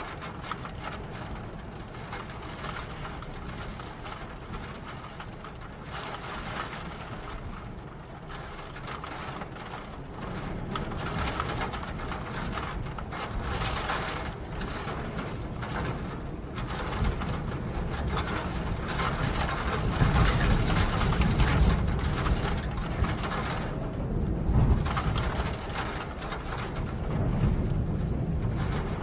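Rain falling with a dense, crackling patter. A low rumble swells up in the second half, loudest a little past the middle.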